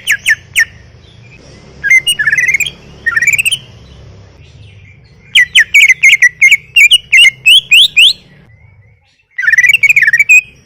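Cucak ijo (green leafbird) singing loudly in several bursts of quick, rising whistled notes. The longest is a rapid run of about a dozen notes midway through.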